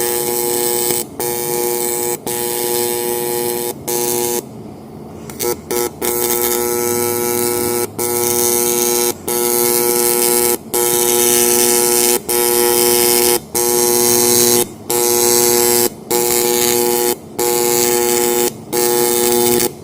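AC TIG welding arc on anodized aluminum, buzzing steadily. The arc is switched on with a hand button and cut briefly about every second or so as the weld is laid in short stretches to bridge a gap. There is a longer pause about four to five seconds in.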